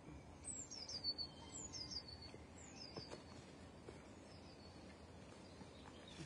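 A small bird singing: three quick runs of high, falling notes in the first three seconds, then a fainter one, over faint background noise.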